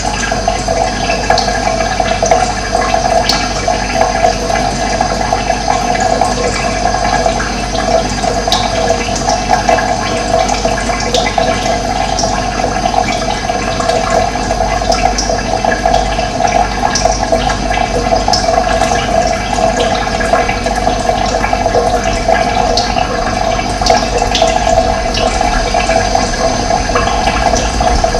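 Running water rushing steadily, with brief high bird chirps now and then.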